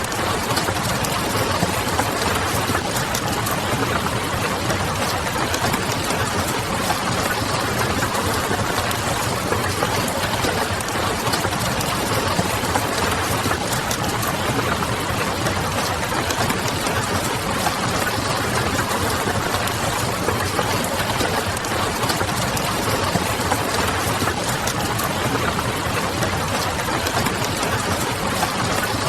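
Steady rain mixed with a crackling wood fire: a dense, even hiss with faint scattered pops.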